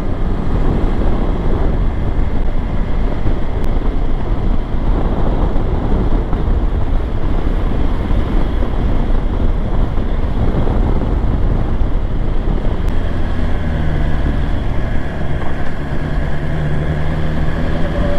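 Motorcycle riding at speed: steady wind noise on the microphone over the BMW S1000XR's inline-four engine, whose tone comes through more clearly in the last few seconds.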